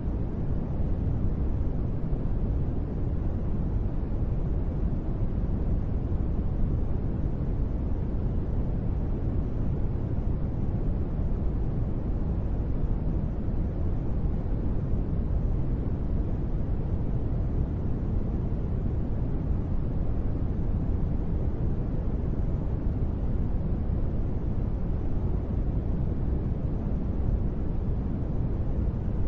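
Steady sleep-track noise billed as gentle rain: an even, unbroken rushing sound weighted toward the deep end, with little high hiss and no separate drops or thunder.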